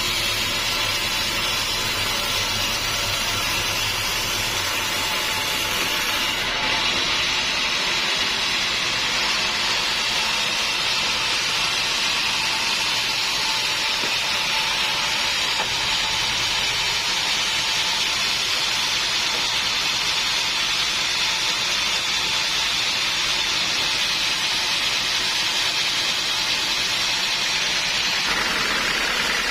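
Sawmill machinery running steadily with a continuous rushing, hissing noise of a saw working on wood. About six and a half seconds in, a low hum drops away and the high noise changes character. The sound shifts again near the end.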